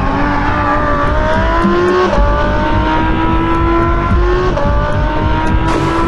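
Audi R8's V10 engine accelerating hard through the gears. The engine note climbs, then drops back at each of several upshifts.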